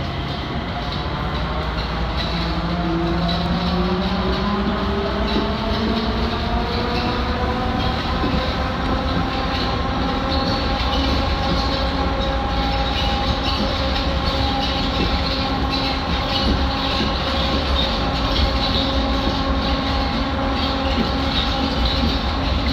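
Electric train's traction motors whining, rising in pitch as the train gets under way, then holding a steady pitch over the rumble of the running train.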